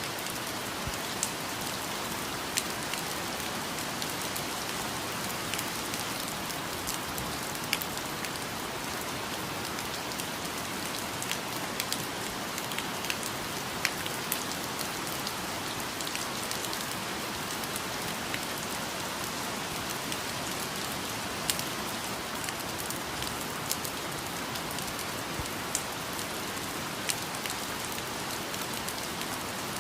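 Steady rain falling on foliage, with individual heavier drops landing as scattered sharp taps over the even hiss.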